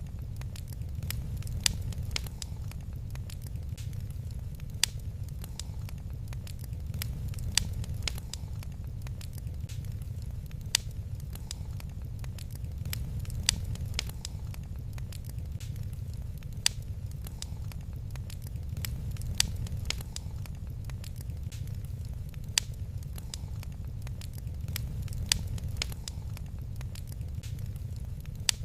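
Wood fire crackling in a fireplace: many small crackles and a sharp louder pop about every three seconds, over a steady low rumble.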